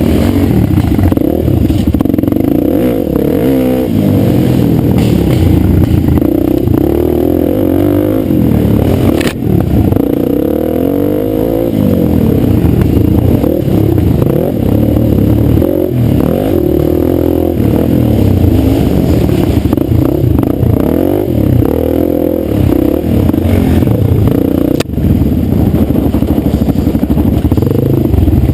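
Dirt bike engine running hard, its pitch rising and falling over and over as the throttle is worked, with two brief sharp breaks, about nine seconds in and near the end.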